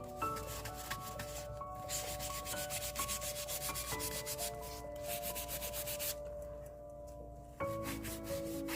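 Rapid scratchy rubbing strokes on paper, typical of sanding or distressing paper in junk-journal crafting. The strokes stop for about a second and a half near the end, then start again. Soft background music with long held notes plays underneath.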